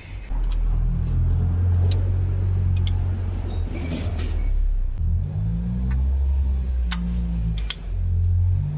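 Motorcycle engine starting about a third of a second in and running, its pitch dipping and rising again as the throttle is worked, with a few light clicks over it.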